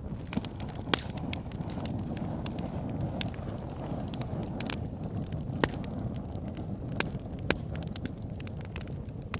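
Wood fire burning in a fireplace: a steady low rumble of flames with scattered sharp crackles and pops, a few louder snaps about a second in and again around six, seven and seven and a half seconds.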